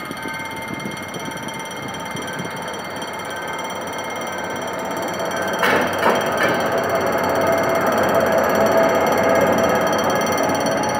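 Level-crossing warning bell ringing continuously while a GM GT-22 CW-2 diesel locomotive hauling a passenger train rolls over the crossing. About halfway through come two sharp knocks as the wheels strike the crossing, after which the locomotive's engine and wheel noise grows louder.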